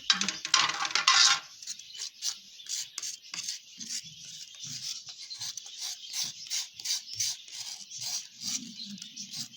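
A knife scraping a cuttlefish bone in repeated short, raspy strokes, with a longer, louder scrape about half a second in. This is the soft, chalky bone being scraped down to remove its dark, discoloured surface before it is sterilised for cage birds.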